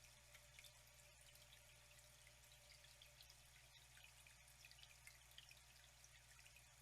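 Faint flowing water with many small droplet splashes, over a steady low hum.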